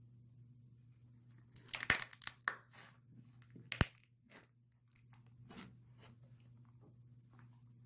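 White slime being stretched and kneaded by hand against a tabletop, giving a burst of sticky crackling about two seconds in, a sharp click near four seconds, then scattered softer crackles. A steady low hum lies underneath.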